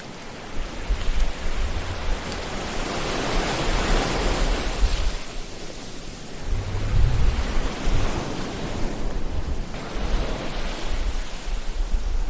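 Ocean waves breaking and washing on a shore, a hissing surf that swells and ebbs twice, with a low rumble underneath.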